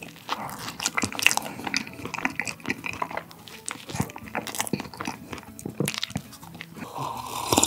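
Close-miked biting and chewing of a soft pistachio fresh-cream bun, a run of wet mouth sounds with many small irregular clicks.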